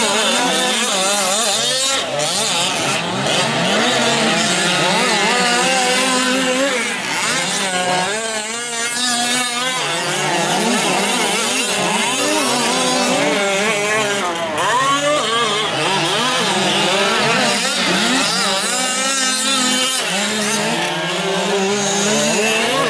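Several 1/5-scale gas RC trucks' small two-stroke engines racing together, each whining up and down in pitch as they rev and back off through the corners and straights.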